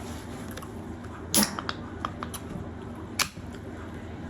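Two sharp clicks or knocks about two seconds apart, the first the louder, with a few lighter ticks between them.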